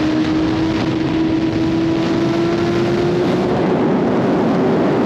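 BMW S1000RR inline-four with a titanium SC Project exhaust running at high revs while riding, its note climbing slowly as it pulls in gear, over a steady rush of wind.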